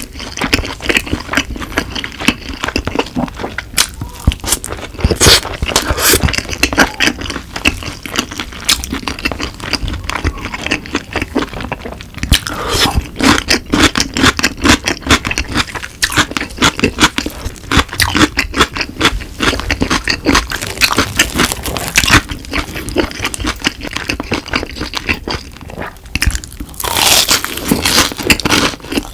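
Close-up crunching and chewing of crispy boneless yangnyeom fried chicken, a dense run of crackly crunches, with bites of a fried cheese stick near the end.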